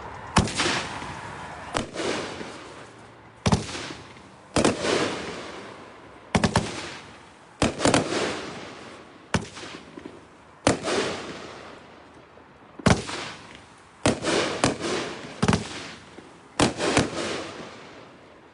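Dragon Tail economy 500-gram consumer fireworks cake firing a volley of about fifteen sharp bangs at uneven intervals, some in quick pairs. Each bang is followed by a fading tail.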